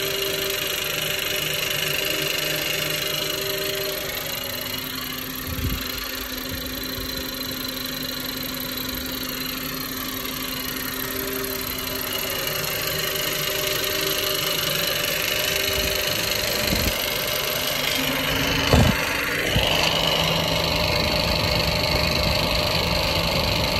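Ford FG Falcon engine idling warm, with a ticking knock like lifter noise that the owner hears coming from lower down than the valve train and only once the engine has heated up. A few sharp knocks come in late on, the loudest about three-quarters of the way through.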